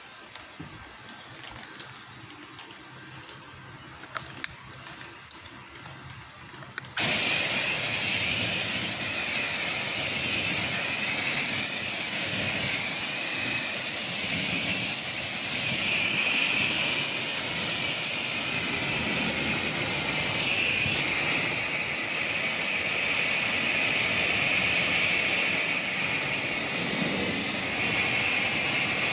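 Quiet with a few faint clicks at first; then, about seven seconds in, a pressure washer's high-pressure spray comes on abruptly and runs as a steady loud hiss while rinsing the house down.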